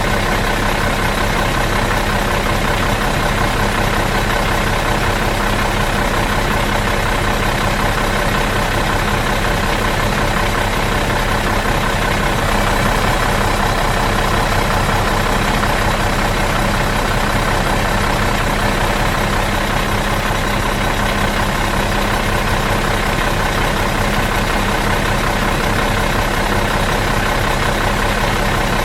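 Bus engine idling steadily in neutral, an even, unchanging engine sound.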